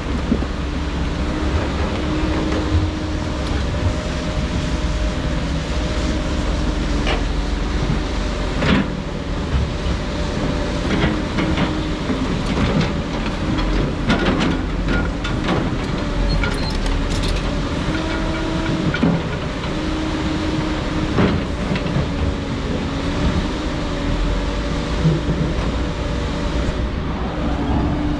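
Excavator's diesel engine running under load, with a hydraulic whine that steps up and down in pitch as the machine works and a deep steady rumble. Scattered sharp clanks and knocks break in throughout.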